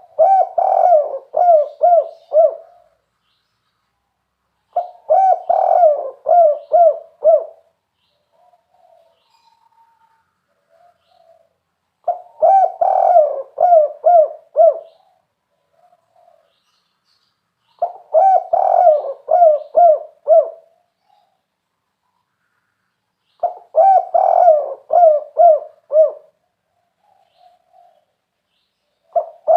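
Spotted dove (tekukur) of the 'kuk 3' song type cooing. It gives five phrases, each a quick run of about five or six coo notes, with gaps of a few seconds between them; a sixth phrase starts at the very end.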